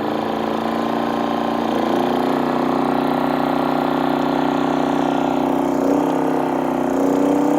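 Genmax GM3500Xi inverter generator's engine running, its speed stepping up a few times as about 2,000 watts of lights come on as load.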